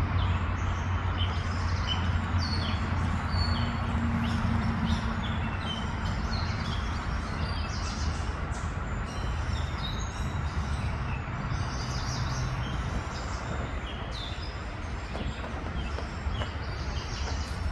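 A group of birds calling back and forth in short, quick chirps throughout, over a steady low hum.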